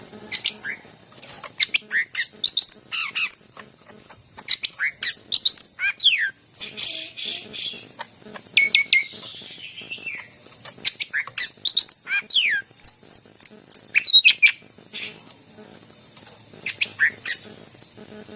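Cucak ijo (green leafbird) singing in phrases of quick, sharply sweeping whistled and chattering notes, broken by short pauses, over a steady high-pitched whine and hiss.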